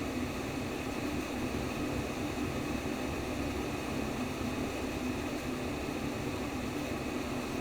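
Womb-sound white noise for babies: a steady, even hiss, strongest in its deep part, with no breaks or beats.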